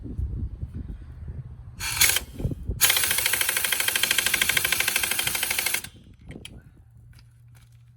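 Impact wrench hammering on the clutch hub nut: a short burst about two seconds in, then about three seconds of steady rapid hammering that stops suddenly. The gun is not strong enough to break the nut loose.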